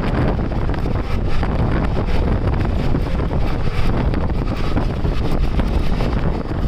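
Wind rushing and buffeting the microphone at the open window of a moving passenger train in heavy rain, over the train's running noise.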